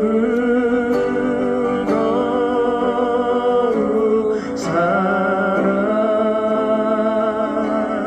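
A solo singer holding long, drawn-out notes with vibrato in a Korean gospel hymn, over guitar accompaniment.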